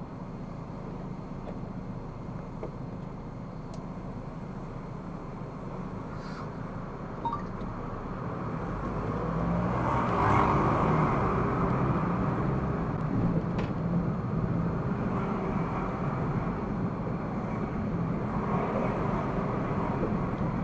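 Steady road and engine noise of a car in motion, heard from inside the cabin by a dashcam, growing louder about nine seconds in and staying up.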